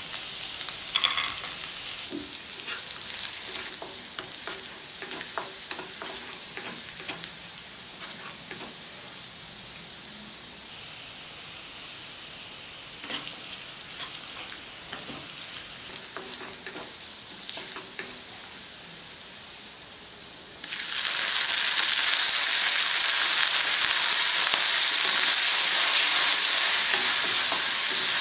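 Chopped garlic, cashew nuts and a dried red chilli sizzling in hot oil in a wok, stirred with a wooden spatula that knocks and scrapes against the pan. About three-quarters of the way through, the sizzling suddenly becomes much louder.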